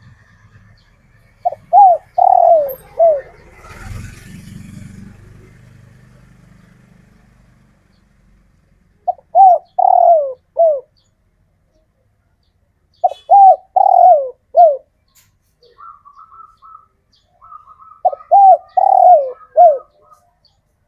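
Male spotted dove cooing: four phrases spaced several seconds apart, each of three or four short coos that fall in pitch. It is the male's repeated calling song, the kind used to attract females.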